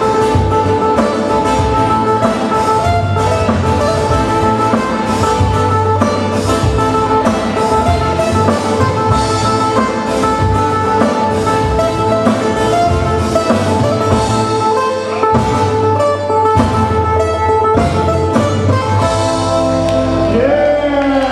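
Live band playing an instrumental passage: guitar over bass and drum kit, with gliding notes near the end.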